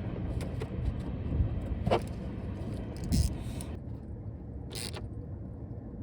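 A few light clicks and knocks of parts being checked and handled in the engine bay, over a steady low rumble.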